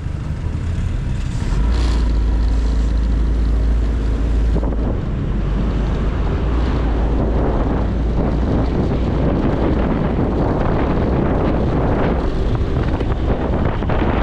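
Motorcycle engine running with a low rumble that strengthens in the first seconds as it pulls away. About four or five seconds in, wind buffeting the microphone builds up as speed rises and largely covers the engine.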